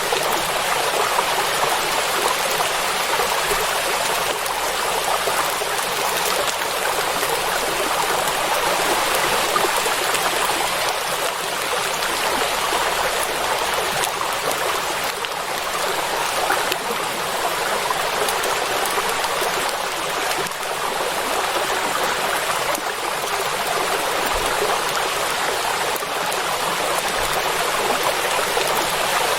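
Steady rain falling on a lake, an even hiss of countless drops striking water with little low rumble.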